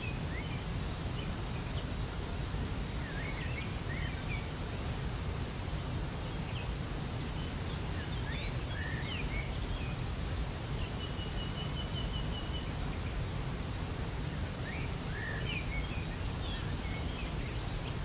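Steady rush of a waterfall's falling water, with small birds giving brief chirps now and then and one short rapid trill about eleven seconds in.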